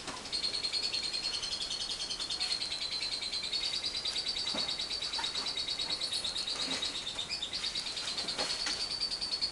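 Lovebird's long 'ngekek' song: one unbroken, rapid, high chattering trill that starts just after the beginning and keeps going, with a few short sharp calls from another bird over it.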